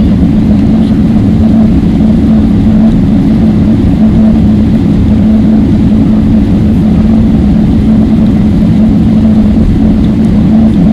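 Steady engine and air noise inside the cabin of a Boeing 777-300ER, a loud, even roar under a constant low hum.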